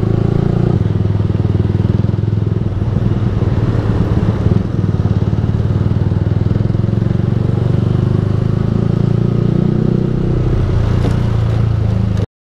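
Yamaha R15 V3's single-cylinder engine through a Ronin Musashi aftermarket exhaust, running at steady riding revs. The sound cuts off suddenly near the end.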